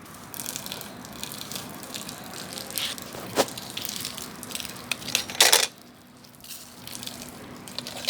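Bonfire burning: a steady hiss of flame with frequent small crackles and pops of burning wood, a sharp snap about three and a half seconds in and a louder burst of crackling around five and a half seconds.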